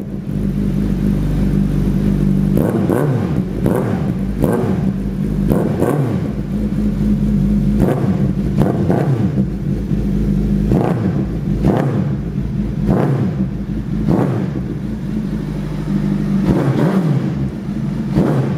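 Suzuki GSX1300R Hayabusa's inline-four engine idling through an aftermarket full exhaust, revved in a dozen or so short throttle blips, some in quick pairs.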